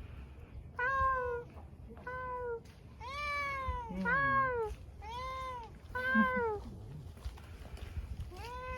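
Stray cat meowing repeatedly in answer, about seven meows each under a second long, each rising then falling in pitch. The calls come in a quick run, then one more after a pause near the end.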